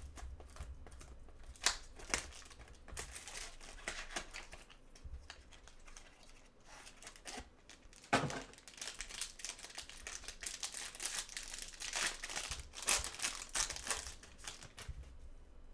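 Trading-card pack wrappers crinkling and tearing open, with irregular rustles and sharp clicks, busiest in the second half.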